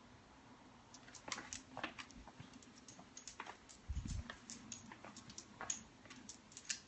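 A dog moving about, making a run of light irregular clicks and taps, with a dull thump about four seconds in.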